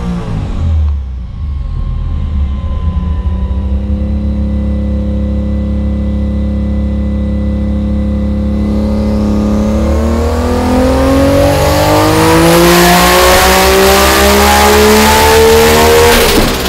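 Nissan GT-R R35's twin-turbo 3.8-litre V6 running on a chassis dyno. The engine drops back at first and holds a steady speed for several seconds. From about ten seconds in it pulls hard, getting louder with its pitch climbing steadily for about six seconds: a power run. It cuts off sharply near the end as the throttle is lifted.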